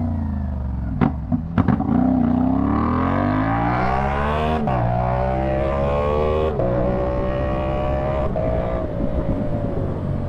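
CFMoto 450SR's parallel-twin engine through a slip-on exhaust, rising in pitch as it accelerates, then dropping abruptly near the middle as it shifts up, with a second shift a couple of seconds later and the pitch easing off after. A few sharp pops about a second in.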